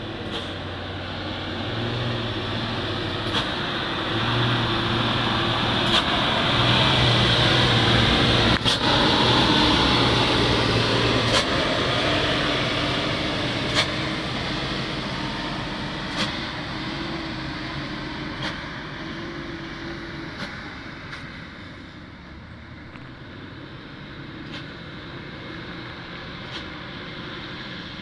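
Diesel dump truck engine running, growing louder over the first ten seconds or so as the truck passes close, then fading away. Occasional sharp ticks come through it.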